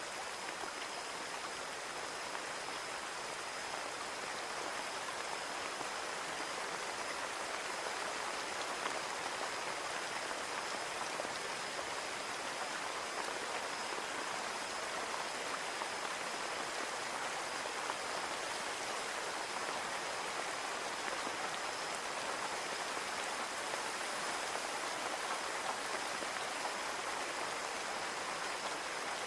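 Steady rain falling and pattering on a window pane, an even hiss of many drops with a faint steady high tone running through it.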